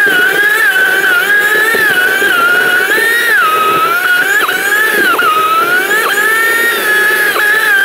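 Sport motorcycle engine running at high revs while riding, with a high whine that wavers up and down with the throttle. The pitch drops sharply for a moment several times, in the second half.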